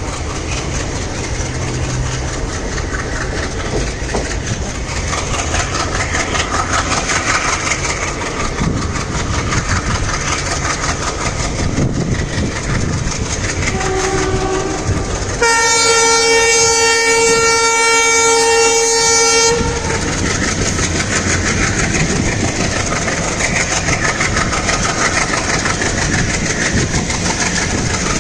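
Diesel-hauled passenger train running at speed, a steady rumble and wheel clatter. Just past the middle a locomotive horn sounds in one loud blast of about four seconds, after a brief fainter hoot just before it.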